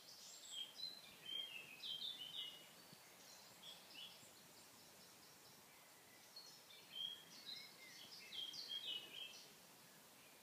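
A songbird singing outside: two quick phrases of short, high chirping notes, the first right at the start and the second about six and a half seconds in.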